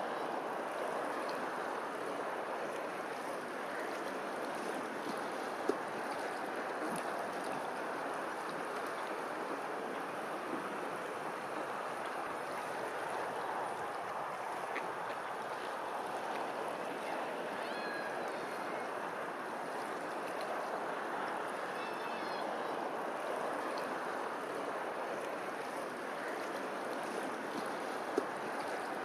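Steady rushing of flowing water. A few faint high chirps come and go, and there are two short clicks, one about six seconds in and one near the end.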